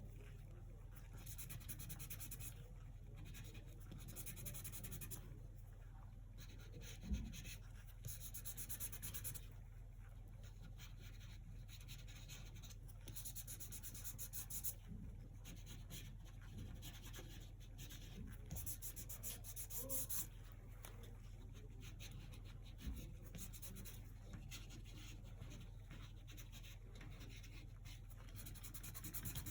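Paintbrush strokes of acrylic paint rubbing across the painting surface in stretches of a second or two, over a steady low hum. There is a short knock about seven seconds in and another near twenty-three seconds.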